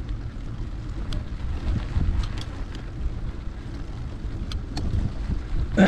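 Wind buffeting the microphone of a camera riding along on a mountain bike, with scattered clicks and rattles from the bike on the trail. A brief, louder sharp sound comes near the end.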